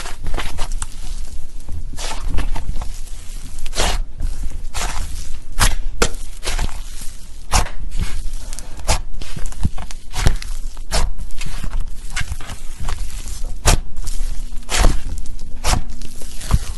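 Slime being squeezed and poked by hand, making irregular sharp pops and clicks, several a second, with some louder snaps.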